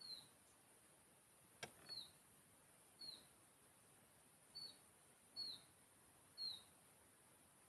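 A small bird repeating a short high call note that drops slightly in pitch, about once a second, six times, over faint steady hiss. A single sharp click comes about a second and a half in.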